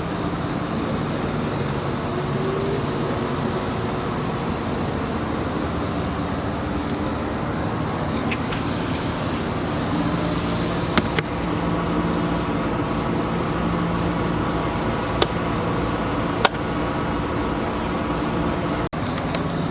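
Steady mechanical hum and rushing noise, with a few sharp clicks in the second half and a brief dropout near the end.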